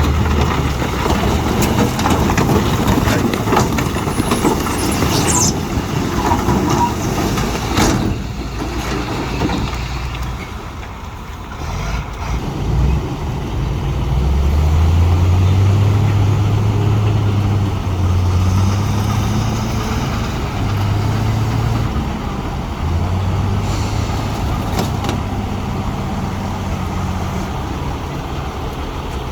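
Heavy earthmoving machinery at work: a diesel engine runs under changing load, with a loud rumbling clatter for the first several seconds. About halfway through, the engine note climbs and holds strong, easing off and picking up again a few times.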